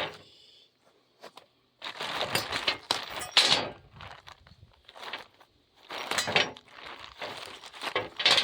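A parts package being opened by hand: two long spells of crinkling, rustling and tearing of the packaging.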